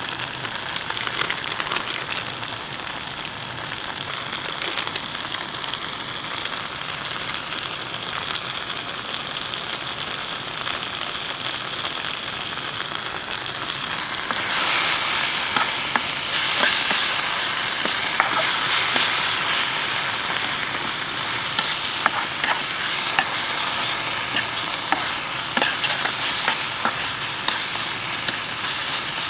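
Onion-tomato masala sizzling as it fries in a stainless steel pan on a gas camping stove. From about halfway the sizzle grows louder, and a spatula clicks and scrapes against the pan as the mix is stirred.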